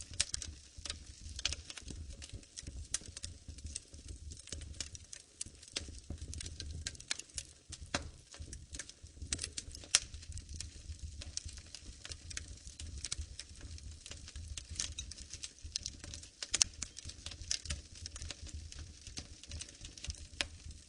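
Wood fire in a fireplace crackling steadily with dense, irregular pops and snaps, a few sharper pops standing out, over a low rumble of the flames.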